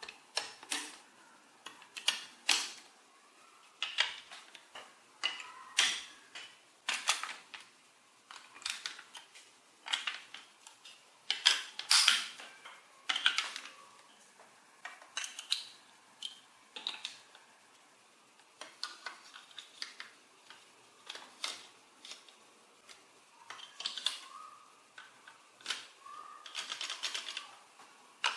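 Hard plastic toy pieces being handled, clicking and clacking together irregularly, one or two sharp clacks a second.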